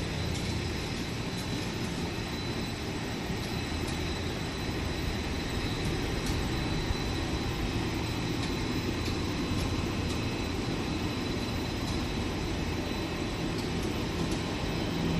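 Steady machinery noise of a rubber extrusion and microwave vulcanization production line running: a low hum with a thin, steady high tone and a few faint ticks.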